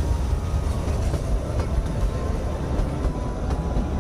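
Kalka–Shimla narrow-gauge train running, heard from inside a passenger coach: a steady rumble of wheels on the rails, with a few faint clicks.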